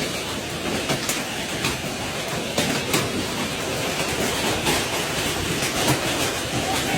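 Large hailstones pelting down on hard surfaces: a dense, steady clatter with sharper, louder strikes standing out here and there.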